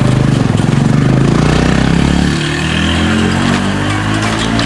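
An engine running close by, steady at first, then its pitch climbs slowly from about halfway through as it speeds up.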